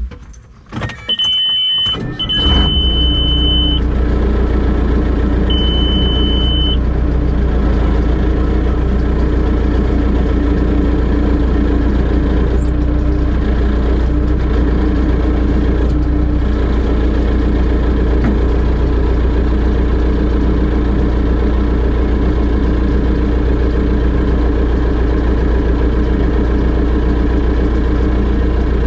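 Telehandler's diesel engine running steadily under load, after a few knocks. A high warning beep sounds three times in the first seven seconds.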